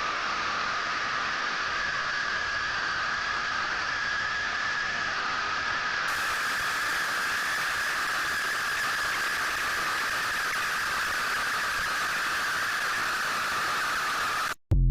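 Steady hissing noise at an even level, cut off abruptly near the end, followed at once by a short low thud.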